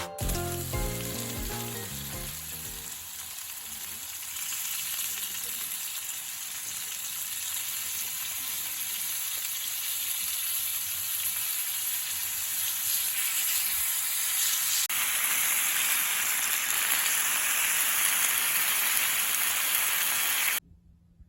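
Food sizzling as it fries in a pan: a steady hiss that grows louder about fifteen seconds in and cuts off suddenly near the end. Background music fades out at the start.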